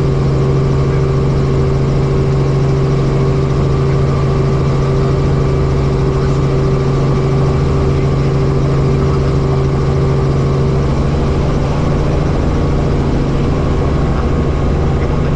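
Helicopter in flight: a loud, steady engine and rotor drone with a constant low hum.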